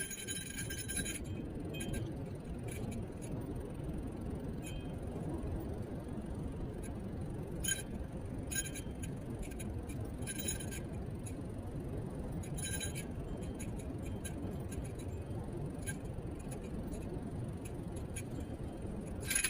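Steady road and wind rumble from a Niu KQi3 Pro electric kick scooter riding along. A few short ringing metallic clinks, from parts rattling on the scooter, come between about eight and thirteen seconds in.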